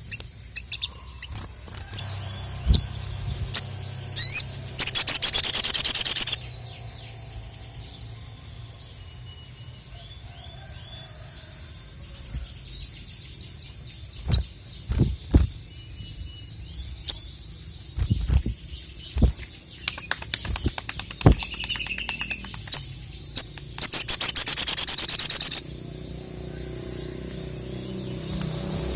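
Sogok ontong (sogon), a sunbird, in full call: scattered short, sharp high chirps, and two long, very loud high trills of about a second and a half each, one about five seconds in and one about twenty-four seconds in.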